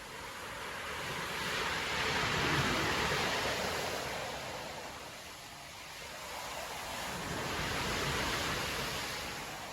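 Storm surf breaking on a beach: waves crash and wash up the shore in two swells, peaking about two and a half seconds in and again near eight seconds, with a steady hiss of foam and wind between.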